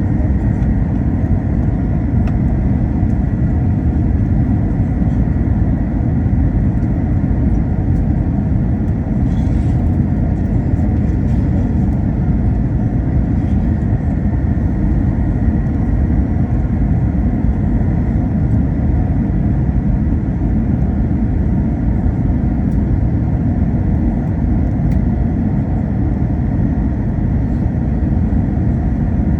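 Airbus A321 cabin noise: a steady low rumble of engines and airflow, with a faint steady high whine over it.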